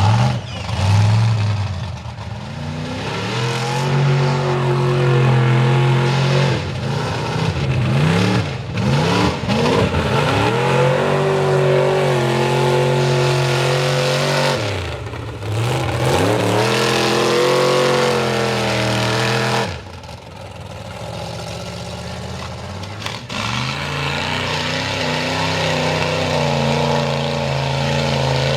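Mega truck engine revving hard again and again, its pitch swinging up and down. After about two-thirds of the way through it eases off to a steadier run, then builds again.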